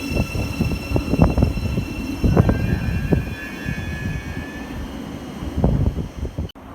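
Train running through the station: a heavy, uneven rumble with steady high whining tones above it, cutting off suddenly near the end.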